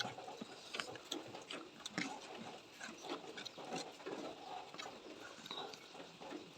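Close-miked chewing and mouth smacking of a person eating, a steady run of small irregular clicks.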